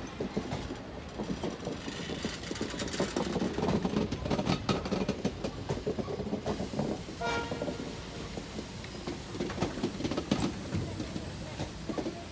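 Passenger train coaches rolling past, their steel wheels knocking and clicking over rail joints with a steady rumble.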